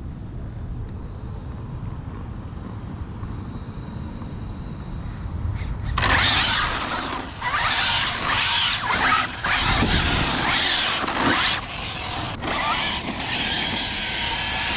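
Arrma Felony 6S RC car's brushless electric motor whining as it is driven in bursts, the high whine rising and falling with throttle, starting about six seconds in. Before that, only a low wind rumble.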